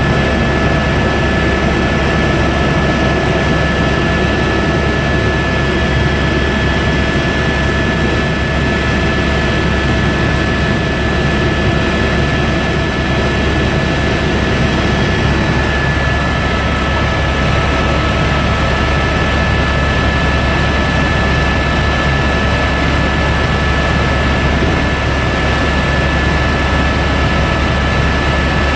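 Helicopter in flight: loud, steady engine and rotor noise, with constant high whining tones over a deep rumble.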